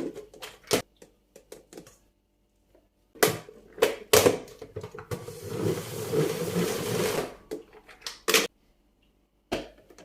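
Household items being handled in a kitchen: a string of sharp clicks and knocks, a cluster of louder knocks around the middle, then about two seconds of steady rustling noise and a last knock near the end.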